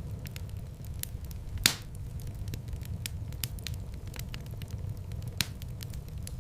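Wood fire in a fireplace crackling, with a steady low rumble of flames under scattered small snaps. A loud sharp pop comes about a second and a half in and a smaller one near the end.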